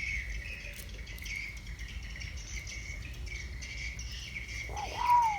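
Insects chirring steadily in a fast pulsing trill. About half a second before the end, a bird gives a louder call that arches up and then falls away.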